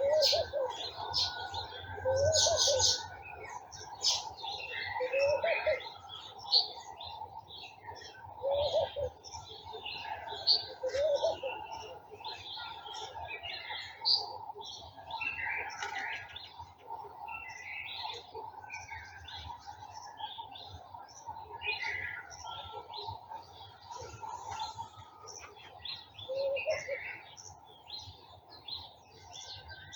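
Garden birds chirping and singing together without a break, with many short, high calls overlapping. A lower call returns every few seconds over a steady background hum.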